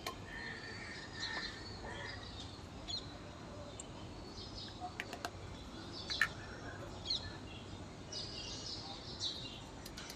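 Birds chirping faintly in the background, with a few light clicks and a low steady hum.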